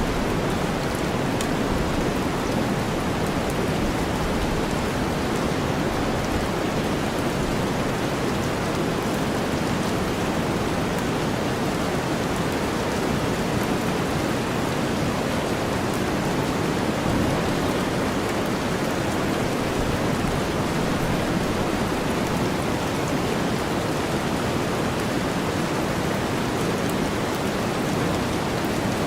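Steady rain mixed with deep white noise, with faint scattered drop ticks.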